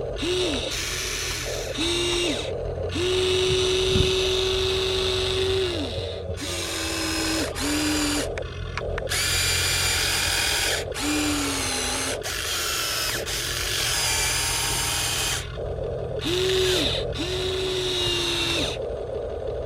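Huina 1593 RC excavator's small electric motors and gearboxes whining in short stop-start bursts as its functions are worked, each whine holding a steady pitch and cutting off abruptly, over a steady low hum.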